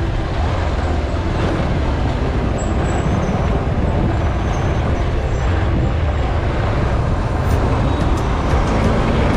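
Steady rush of wind on the microphone mixed with road and engine noise while riding a motorbike.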